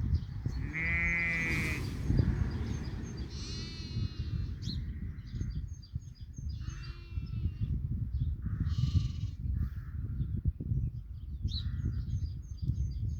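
Sheep and lambs bleating on pasture: several bleats, the loudest about a second in, with birds chirping in the background and a steady low rumble underneath.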